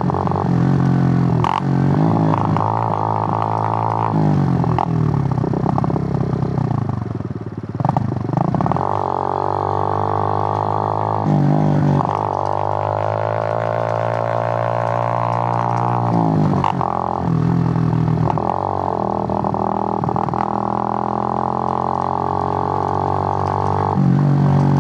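Suzuki GN125's single-cylinder four-stroke engine pulling under load while the bike is ridden, its drone rising in pitch as it accelerates and dropping at each gear change, several times through.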